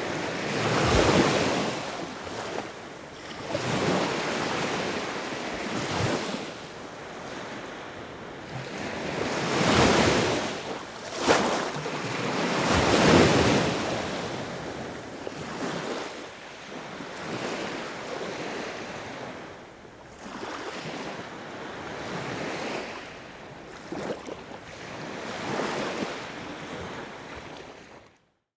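Sea waves breaking and washing in one after another, the surf rising and falling every few seconds with the biggest breakers in the first half. The sound cuts out suddenly just before the end.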